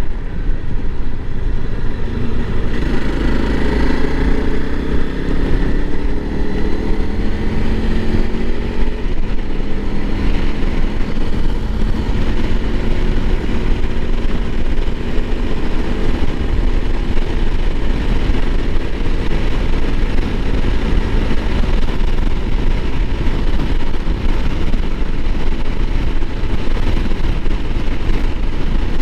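Honda CRF300L Rally's single-cylinder engine on the move, its pitch climbing during the first several seconds as it accelerates, then holding steady at cruising speed. Heavy wind rush on the microphone throughout.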